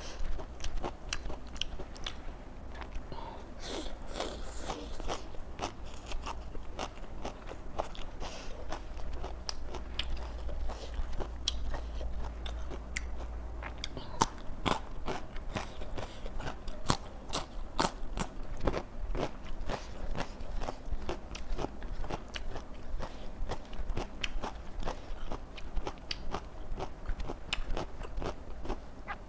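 Close-up crunching and chewing of raw vegetables, with a dense run of sharp crunches and crackles throughout.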